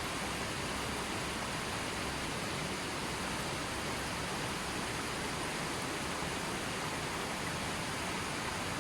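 Steady, even water noise, a constant hiss with no birdsong or music.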